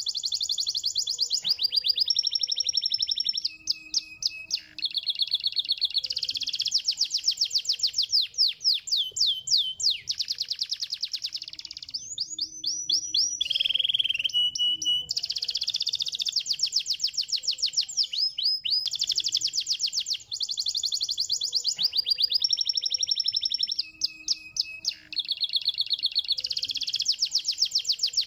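Domestic canary singing long, fast trills and rolls in high, bright phrases with brief pauses between them. This is a song recording played to prompt other canaries to sing.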